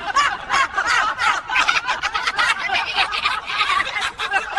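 Stifled laughter: a long run of quick snickering pulses, several a second.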